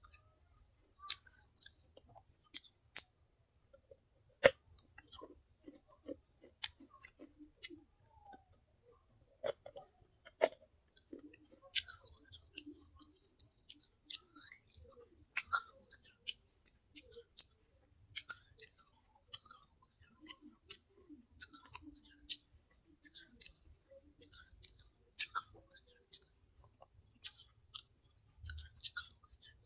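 Close-miked chewing of pieces of baked clay from a clay handi pot: irregular sharp crunches and clicks with wet mouth sounds, one loud snap about four and a half seconds in.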